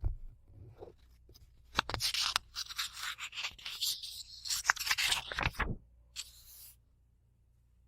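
Book pages being turned and rubbed, a run of dry paper rustles and crackles lasting about four seconds. A soft knock comes at the start and a brief faint rustle near the end.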